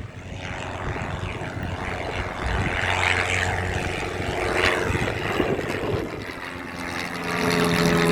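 Propeller airplane engine passing, its sound swelling and fading over several seconds. A steadier engine hum with several even tones comes in near the end.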